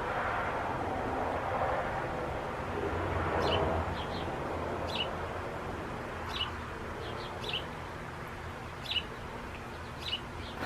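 Small birds chirping: short, high chirps at irregular intervals, roughly one every second or so after the first few seconds, over a soft rushing noise that fades about four seconds in.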